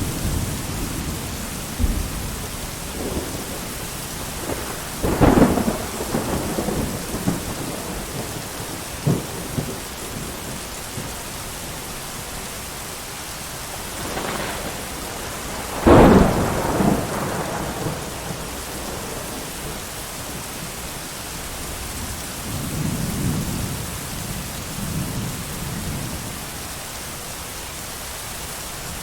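Steady heavy rain with thunder: a loud clap about five seconds in, a louder one about sixteen seconds in, and softer low rolls of thunder near the end.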